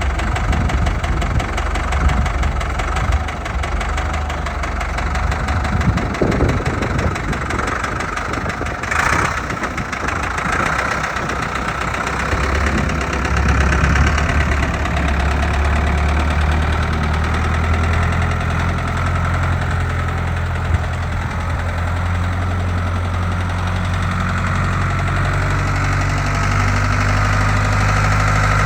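Ford 6610 tractor's four-cylinder diesel engine running, with a brief hiss about nine seconds in; from about twelve seconds in it settles into a steadier, fuller note.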